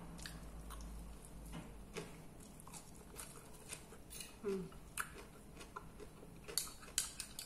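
Close-miked chewing of crisp lettuce salad: soft, irregular crunches and mouth clicks, with a brief hum about halfway through and a few sharper clicks near the end.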